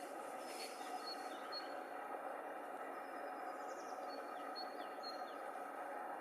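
Faint high bird chirps, short and scattered, over a steady rushing background noise outdoors.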